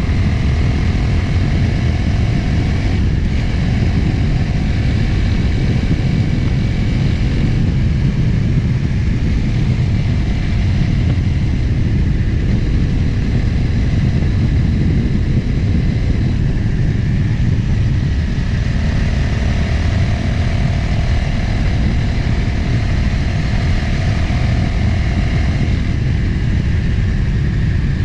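Motorcycle engine running at road speed under heavy wind rumble on the camera microphone, the engine note shifting in pitch now and then.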